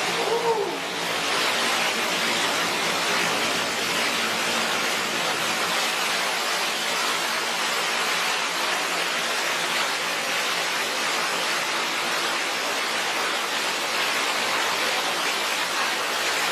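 Steady rushing of falling water, like a waterfall or fountain, an even hiss with little low rumble.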